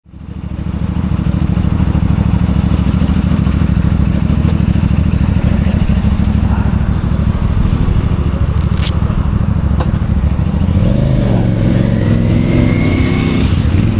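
Motorcycle engine running steadily with a loud low rumble, with faint voices joining near the end.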